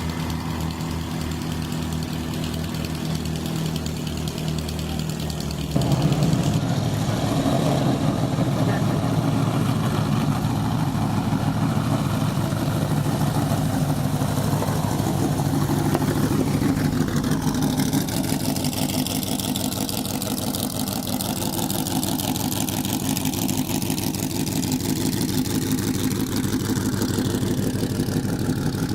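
Antique race car engines idling with a steady beat. About six seconds in, the engine sound jumps louder and rougher and keeps running.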